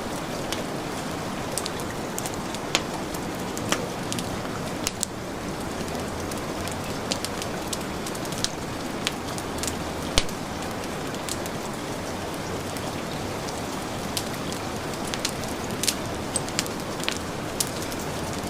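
Heavy rain falling in a steady hiss, mixed with a wood fire crackling in sharp irregular pops, one louder pop about ten seconds in.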